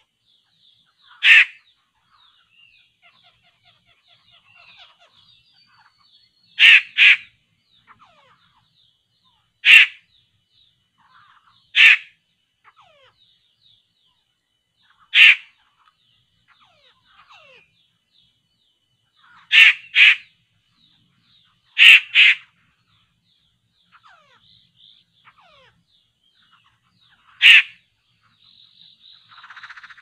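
A loud, harsh bird call given in short single or double notes every few seconds, over faint high chirping of small birds in the background.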